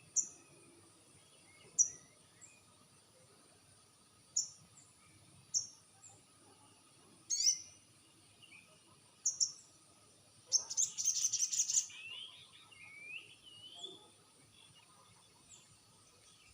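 Sogon bird calling: a series of sharp, high chirps a second or two apart, then a rapid buzzy trill about ten seconds in, followed by a few lower slurred whistles. This is a lure recording meant to make a silent sogon answer.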